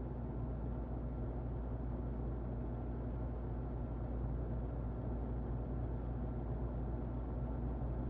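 Muffled electric fan running steadily: a constant low, dull whooshing with a faint motor hum underneath.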